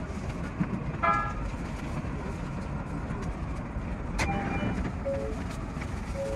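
Odakyu 5000 series electric train running, a steady low rumble heard from the driver's cab, with a short tone about a second in and a click and a few brief tones after about four seconds.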